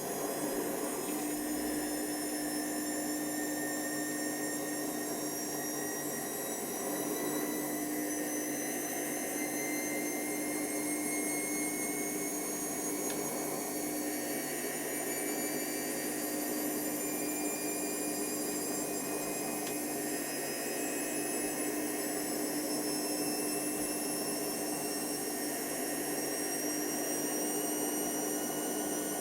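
Hoover Nextra HNWL7146 washer dryer running under power: a steady motor hum with a high whine that climbs slowly in pitch.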